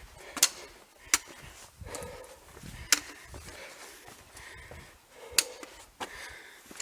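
A hiker's footsteps over the rocky, stony bed of a wadi: soft scuffs and crunches, with five sharp clicks of stone or boot striking rock at irregular intervals.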